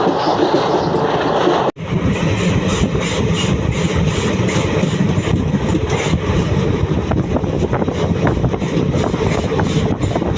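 Passenger train running on the rails, a steady rumble. It breaks off abruptly about two seconds in and comes back heavier and deeper, with scattered clicks from the wheels and track.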